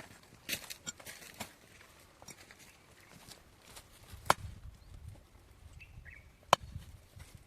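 Light clicks and rustling of handling, with two sharp knocks about two seconds apart, the second near the end.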